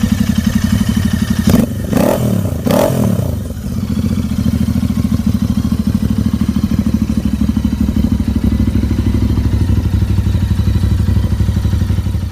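Custom cafe racer motorcycle engine idling with a fast, even exhaust pulse, blipped twice in quick succession near the start, the revs dropping straight back to idle each time.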